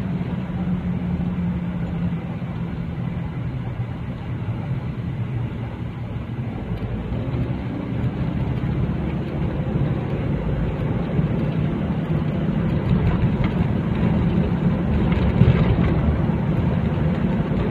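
Steady engine and road noise of a vehicle on the move, with a low rumble that grows a little louder in the last few seconds.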